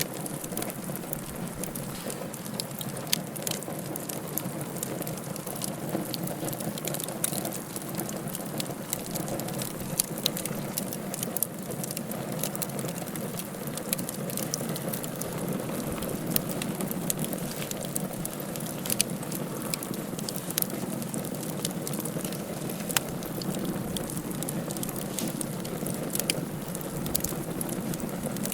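Wood fire burning in a fireplace: a steady low rush of flame, with frequent sharp crackles and pops scattered throughout.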